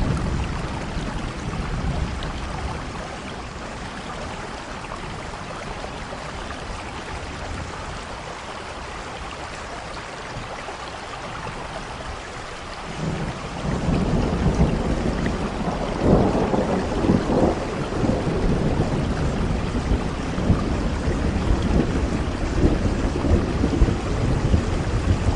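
Heavy rain falling with rolling thunder. A rumble dies away in the first couple of seconds, and a long new roll of thunder builds about halfway through and keeps rumbling to the end.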